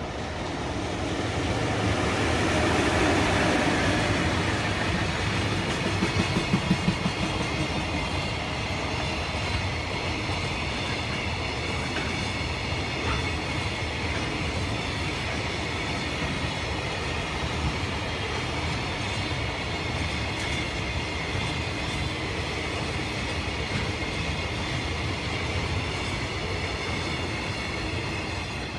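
EF66 electric locomotive hauling a long freight train of container wagons past at speed. It is loudest as the locomotive goes by about three seconds in, then gives way to the steady rumble and clickety-clack of the wagons. There is a quick run of sharp wheel clicks about six seconds in, and a thin high steady ringing from the wheels through the rest.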